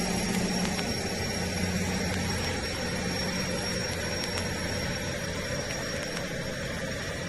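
Steady engine noise of a high-speed transport vehicle: a dense rumble with a low hum and a constant high whine, easing off slightly toward the end.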